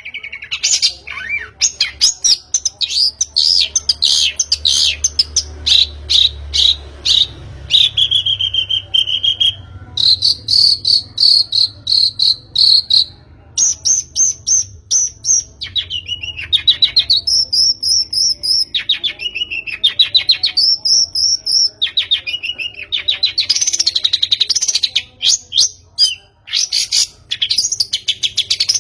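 Long-tailed shrike (pentet) singing without a break: fast chattering trills, a few held whistled notes and rising-and-falling sweeps, as used in a lure recording to set other songbirds singing.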